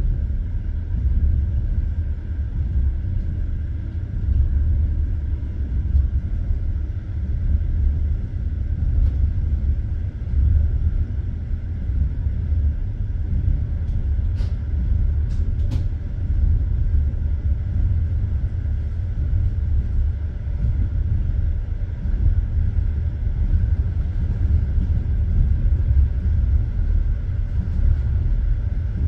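Passenger train running at speed, heard from inside the carriage: a steady low rumble of the wheels on the rails, with three short sharp clicks about halfway through.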